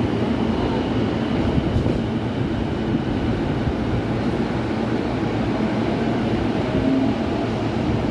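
Electric train running steadily, a continuous low rumble.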